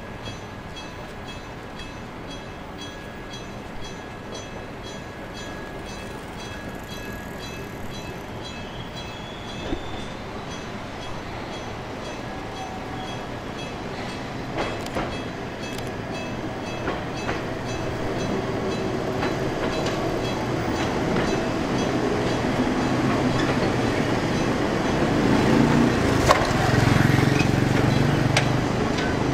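Enoshima Electric Railway electric train running on its track, growing steadily louder as it comes close and passes. A few sharp wheel clacks over rail joints, and a low motor hum that is loudest near the end.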